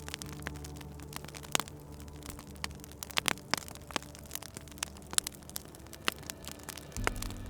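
Wood fire crackling in a fireplace: irregular sharp pops and snaps, a few louder ones around two and three seconds in, over a steady low hum that shifts lower and louder near the end.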